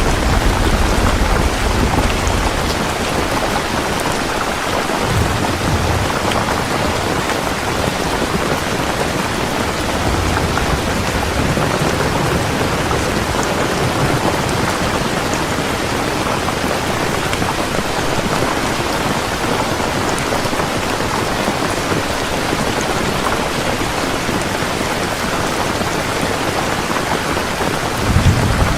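Heavy rain falling steadily, with low rumbles of thunder under it at the start and a short, stronger rumble near the end.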